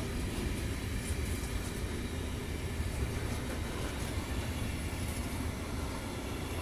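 Intermodal freight train wagons carrying semi-trailers rolling past, a steady rumble of wheels on rails.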